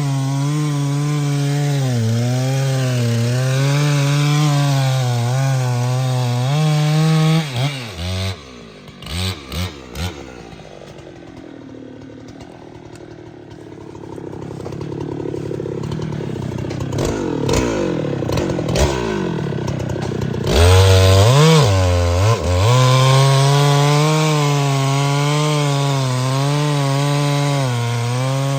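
Chainsaw cutting wood at high revs, its pitch wavering under load. About seven seconds in it drops back to idle with a few short throttle blips, then revs up again around twenty seconds in and goes back into the cut.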